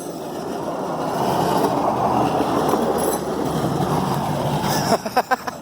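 Hi-rail maintenance truck rolling along steel rails: a steady rolling and rumbling noise from its rail wheels that swells slightly and then holds.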